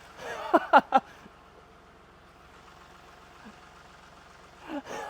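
Tractor engine idling steadily in the background, with a man's short startled exclamations in the first second and again near the end.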